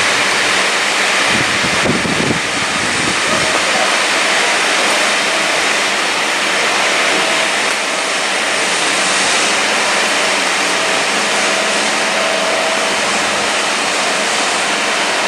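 Passenger coaches of a steam-hauled train running past a platform: a steady rush of wheels on rail. A faint held tone comes in for a few seconds midway.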